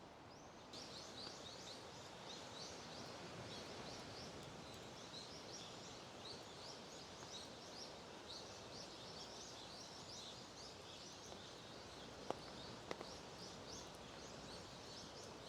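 Small birds chirping in a dense, steady run of short high calls over a faint, even outdoor wash of noise. Two sharp clicks come near the end.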